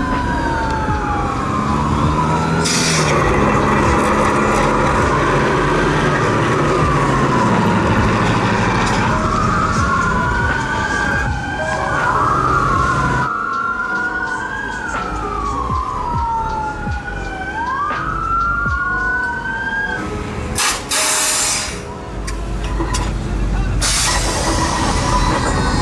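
Emergency vehicle siren wailing in repeated slow rising and falling sweeps, over a low rumble of running engines. There are a few short, loud bursts of noise, near the start and near the end.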